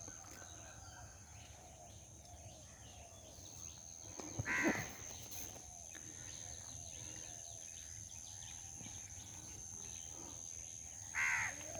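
A bird calling twice, about seven seconds apart, each a short harsh call, over a faint outdoor background with a steady high-pitched tone.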